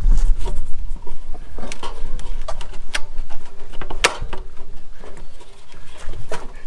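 Irregular clicks, taps and knocks of hand tools and metal fittings being handled during work on an RV water heater, the sharpest knock about four seconds in. A brief low rumble sounds right at the start.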